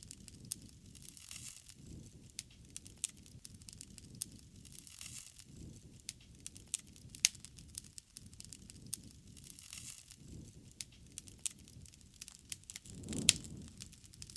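Wood fire crackling: irregular snaps and pops, a few sharper and louder than the rest, over a soft low rush of burning that swells now and then.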